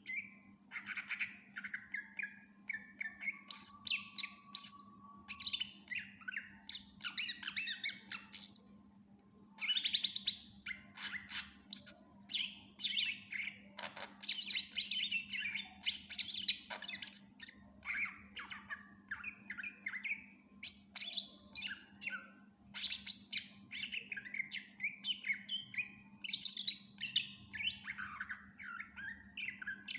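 Cucak ijo (green leafbird) singing non-stop, a fast, varied run of chirps, trills and whistles packed with mimicked calls of other birds, over a steady low hum.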